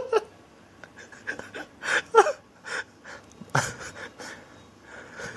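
A person's breathy gasps and soft laughs in short bursts, with a few sharp clicks between them.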